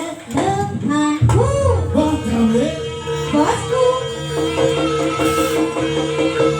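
Live Javanese trance-dance music: a voice sings sliding phrases over a drum beat, then gives way about halfway through to steady held notes over the beat.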